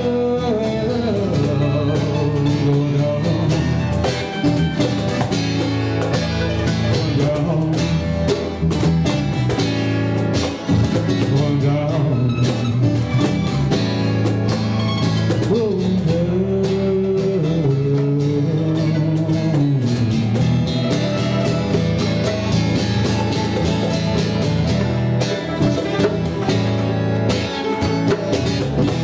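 Live band playing an instrumental passage of the song with guitars, bass and drums, and a lead line bending up and down in pitch above them.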